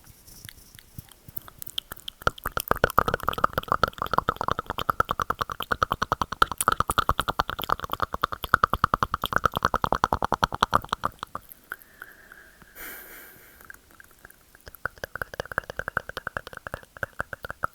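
Rapid wet mouth clicks and tongue clicks made close to the microphone, a dense run of many clicks a second starting about two seconds in. They break off a little past the middle for a short hiss, then start again more quietly.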